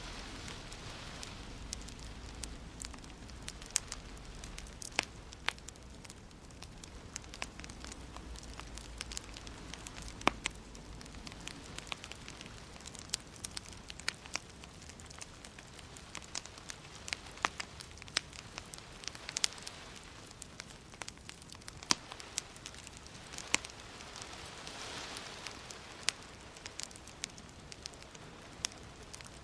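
Wood fire crackling, with irregular sharp pops over a steady soft hiss.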